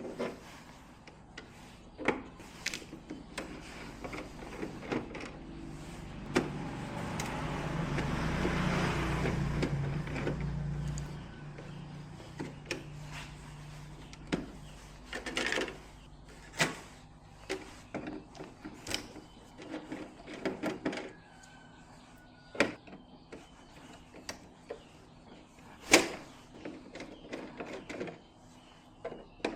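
Scattered clicks and knocks of handling, with a small motor whirring for about five seconds, starting about six seconds in.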